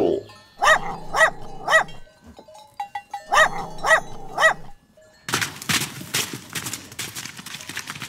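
A dog barking: two runs of three short barks about half a second apart, with a pause between the runs. From about five seconds in, a noisy clatter of rapid clicks takes over.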